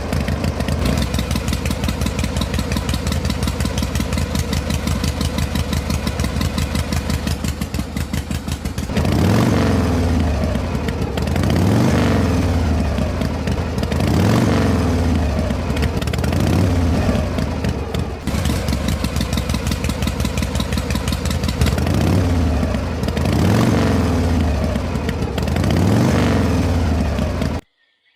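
Small engine running with a fast, even beat, then revved up and down over and over from about nine seconds in. It cuts off abruptly near the end.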